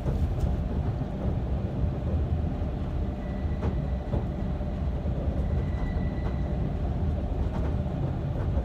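Regional passenger train carriage rumbling and rattling on the track while under way, heard from inside the carriage, very noisy. A faint high whine comes in for a few seconds in the middle, with a few light knocks.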